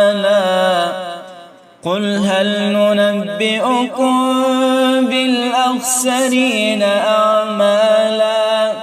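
Male reciter chanting the Quran in a melodic style, drawing out the last word of a verse in long ornamented notes. After a brief breath break about two seconds in, he starts a new long melodic phrase with slow held notes.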